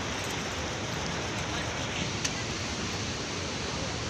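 Steady roar of the Dhuandhar waterfall on the Narmada, swollen with monsoon floodwater: a dense, unbroken rush of falling water.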